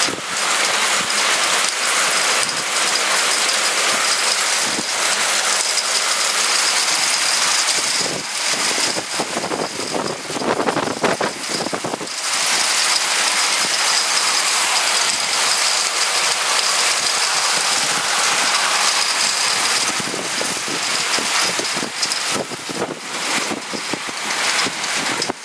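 Hailstorm: hail and heavy rain pelting down in a dense, continuous rattle of hailstones striking hard surfaces.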